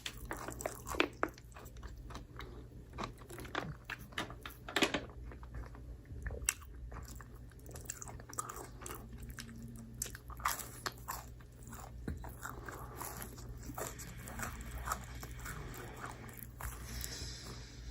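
Close-miked eating of pizza: irregular bites and chewing with crunchy, crackling snaps.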